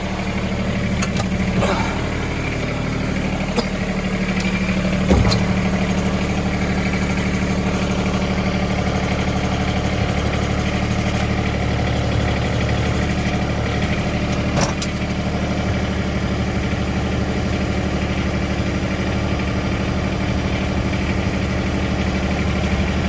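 Loader tractor's engine idling steadily, with a single sharp clank about five seconds in and a few light clicks.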